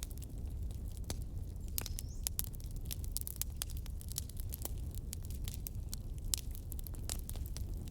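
Wood fire burning in a fireplace: scattered sharp crackles and pops from the logs over a steady low rumble of the flames, with a brief rising whistle about two seconds in.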